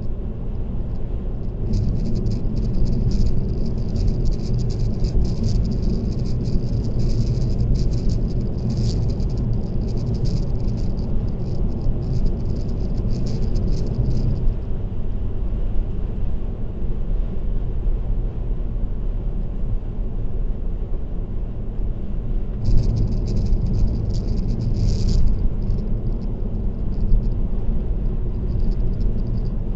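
Steady low road and tyre rumble of a car driving on an expressway. A fast, high rattle comes in after about two seconds, stops about halfway through, and returns briefly later.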